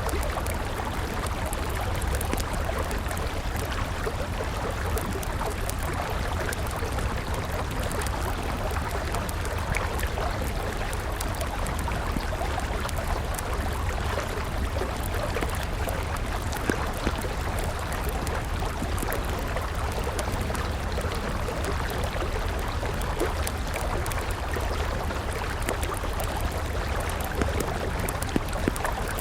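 A river flowing steadily with a campfire crackling over it, many small sharp pops scattered throughout.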